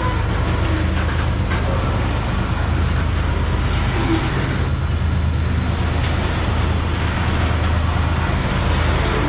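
BNSF coal train's hopper cars rolling past: a steady rumble of steel wheels on rail.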